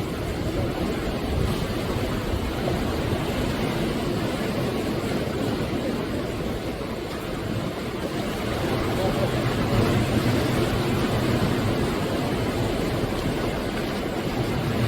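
Sea waves surging and breaking on the shore: a steady rush of surf that swells louder a little past halfway through.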